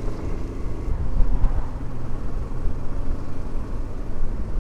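Motorcycle riding on the road: engine running under a low, uneven rumble of wind on the microphone.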